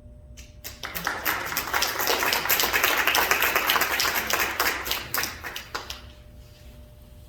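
A group of people clapping: the applause starts about a second in, swells, and dies away about a second before the end.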